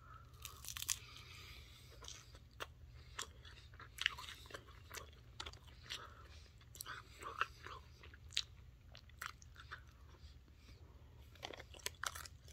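A person chewing mouthfuls of Taco Bell Crunchwrap Supreme close to the microphone: quiet, irregular crunches and small mouth clicks, a few every second.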